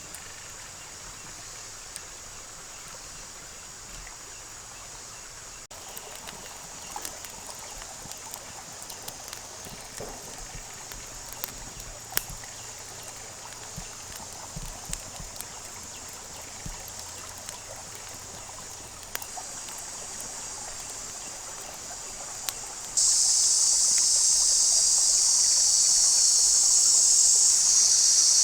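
A steady high hiss with scattered small clicks and crackles. About 23 seconds in, a much louder high-pitched insect chorus starts abruptly and holds steady.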